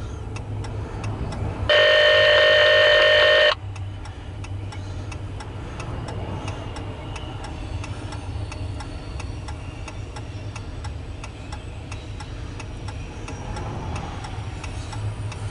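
Steady road and engine rumble inside a moving car, with faint, regular ticking. About two seconds in, a loud steady tone of several pitches sounds for nearly two seconds and cuts off sharply.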